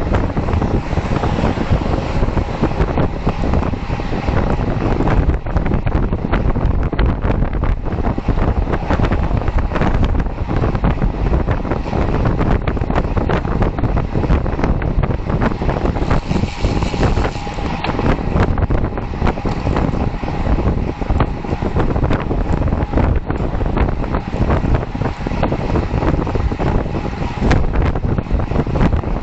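Steady wind noise buffeting the microphone of a camera riding along on a bicycle at speed, with a low road rumble under it.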